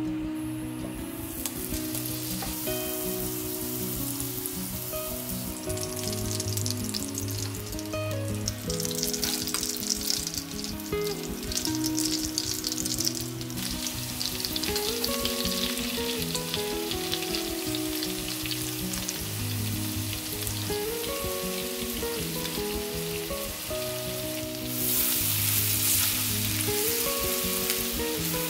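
Butter and minced garlic sizzling in a nonstick frying pan, starting about a second in and growing louder near the end as spices are stirred in with a spatula. Soft melodic background music plays throughout.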